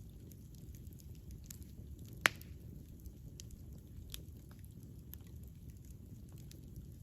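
Campfire burning, with a steady low rumble and scattered small crackles. One sharp, loud pop about two seconds in.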